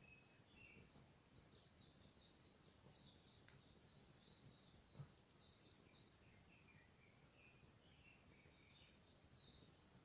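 Faint birdsong: quick runs of high chirps and twitters from small birds, over a few soft pops from a wood campfire, the clearest about five seconds in.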